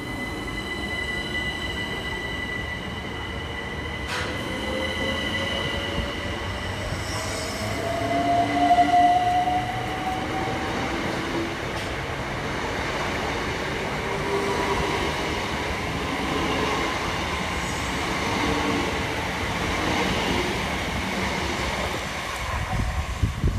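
Electric multiple-unit train on the line, with steady high tones and a whine that rises in pitch over several seconds, loudest about a third of the way in, amid wheel and rail noise.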